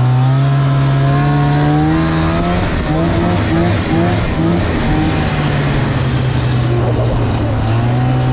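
Snowmobile engine running under steady throttle, its pitch rising slightly, then wavering up and down for a couple of seconds about three seconds in before settling back to a steady drone.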